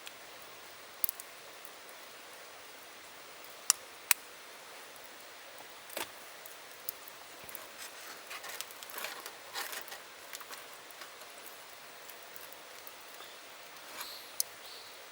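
A few sharp clicks and snaps and a run of small crackles about eight to ten seconds in, over a steady hiss.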